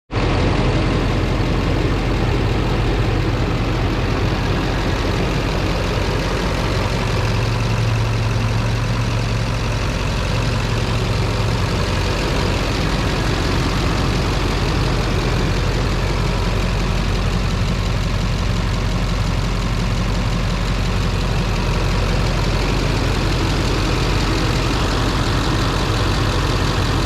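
2006 Chevrolet Silverado 2500 HD's 6.6-litre Duramax V8 turbodiesel idling steadily.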